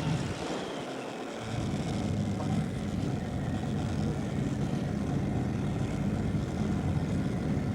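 Pulling tractor's engine running loudly, getting louder and fuller about a second and a half in, then holding steady.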